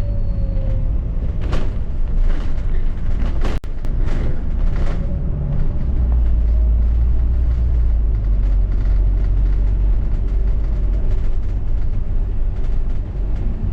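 A London double-decker bus running, heard on board: a steady low rumble of the drive and the road, growing heavier about halfway through, with a faint falling whine near the start.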